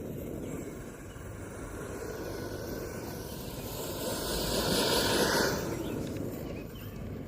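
A 1/5-scale electric RC truck with twin 120 mm ducted fans running, a rushing whir heard from a distance that swells and fades as it passes, loudest about five seconds in.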